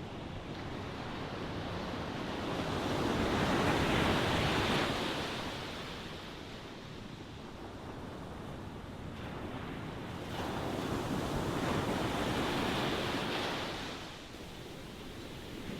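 Ocean waves washing ashore: two waves swell and break, the first peaking about four seconds in and the second about twelve seconds in, each fading away over a couple of seconds.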